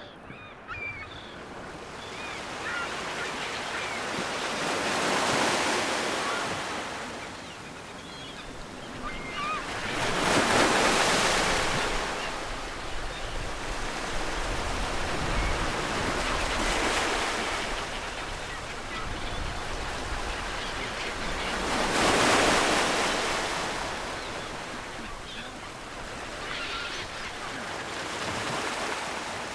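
Ocean waves breaking and washing up the shore, swelling and fading in slow surges every five or six seconds.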